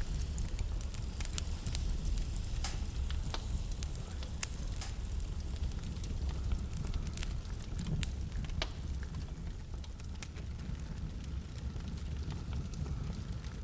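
Wood fire burning in a fireplace: a low steady rumble of flames with many irregular sharp crackles and pops from the burning logs, busier in the first half and sparser toward the end.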